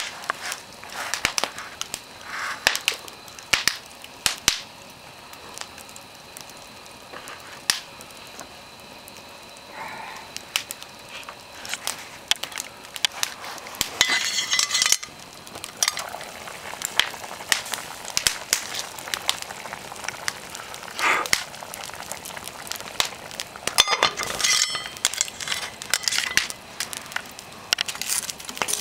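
Open wood fire burning, crackling with many irregular sharp pops and snaps over a steady hiss, busier in a couple of short stretches.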